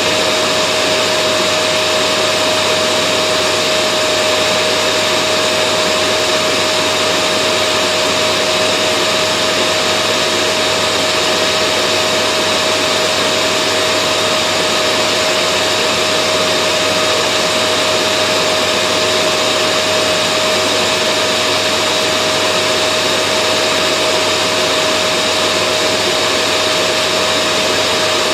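Vacuum cleaner motor running steadily: an even rushing of air with a constant whine, no change in speed.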